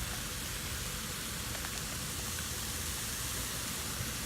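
Shredded cabbage and carrot filling sizzling steadily in a frying pan as it cooks down.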